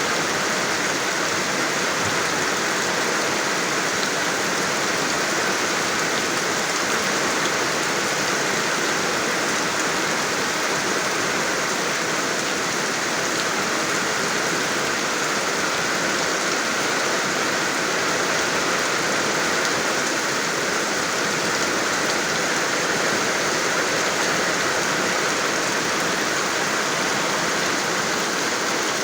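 Steady rain falling, a constant even hiss of drops with no pauses or changes.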